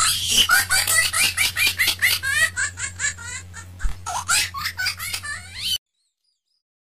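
Loud, rapid laughter in quick repeated bursts over a steady low hum, cutting off abruptly near the end.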